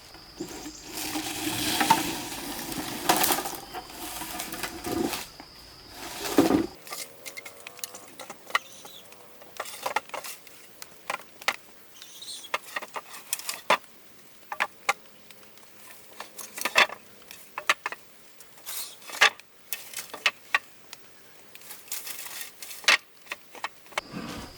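About six seconds of dense scraping and rustling with a few louder knocks, then, after a cut, a long run of scattered sharp clicks and knocks from objects being handled.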